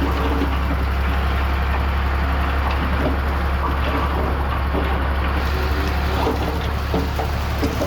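Heavy earthmoving machinery running steadily, a diesel engine's low drone with faint clanking over it.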